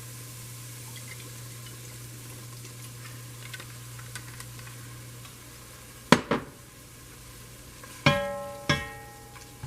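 Chicken sizzling faintly in a frying pan over a steady low hum. About six seconds in, and twice more near the end, a cooking utensil knocks against the pan with a ringing clink.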